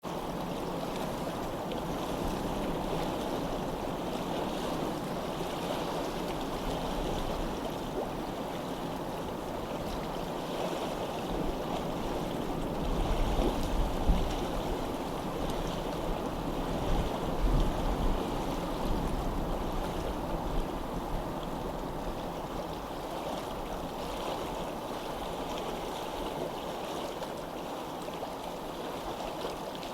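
Running water rushing steadily, with a louder low rumble twice near the middle.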